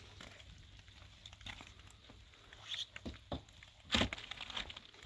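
Plastic sheeting being handled, crinkling and rustling, with a few separate sharp knocks, the loudest about four seconds in.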